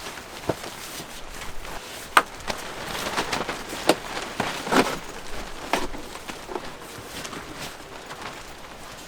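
Irregular light knocks and clicks over faint rustling, the strongest about two and four seconds in.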